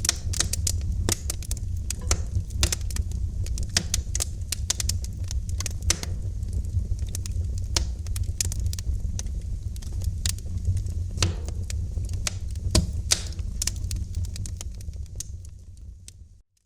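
Wood fire crackling in a fireplace: irregular sharp snaps and pops over a steady low rumble of the flames. The sound fades away to silence near the end.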